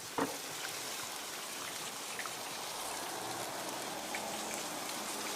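Food sizzling steadily in a hot pan, with a short knock about a quarter second in.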